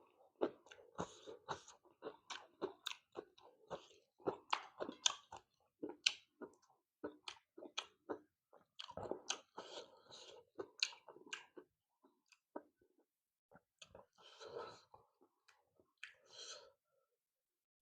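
A person chewing and crunching fried fish with rice, close to the microphone: a run of irregular wet smacks and small crunches that thin out to a few scattered ones after about twelve seconds.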